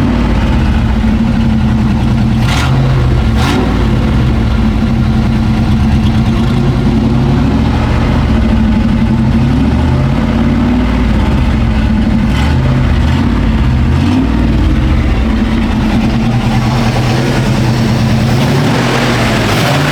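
A 350 small-block Chevy V8 running steadily with a low, slightly wavering note, and a few light clicks. A hiss builds over the last few seconds.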